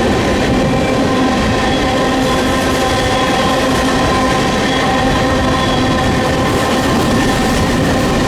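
Freight train cars rolling past at close range: a loud, steady rumble of wheels on rail, with several steady ringing tones over it and the low buffeting of wind on the microphone.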